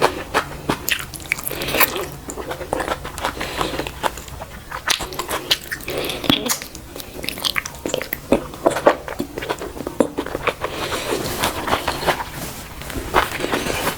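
Close-up eating sounds: a person chewing and biting food with mouth open, a dense, irregular run of wet smacks and clicks.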